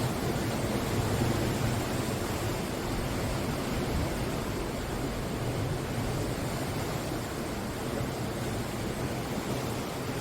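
Sea surf washing steadily onto the shore, a continuous rushing with a deep low rumble underneath.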